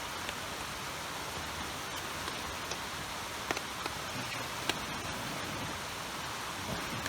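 Steady hiss of running or falling water, with a few sharp ticks scattered through it, the clearest about three and a half and four and a half seconds in.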